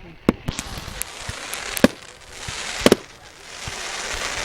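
Fireworks display: a few sharp bangs, with a quick double bang about three seconds in, and stretches of crackling hiss from bursting shells between them.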